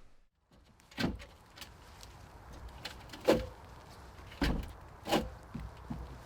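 A handful of irregular knocks and thumps, spaced roughly a second apart, over a low background.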